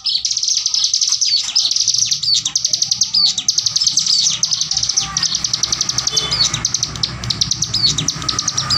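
Hill prinia (ciblek gunung) singing a long, very fast high-pitched rattling trill, the machine-gun-like 'bren' burst, broken now and then by quick down-slurred notes. A faint low hum lies underneath from about two seconds in.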